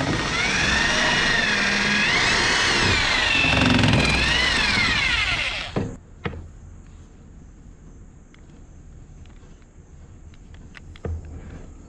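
Power tool motor running under varying load, its pitch rising and falling, then stopping about six seconds in. Faint knocks and handling sounds follow.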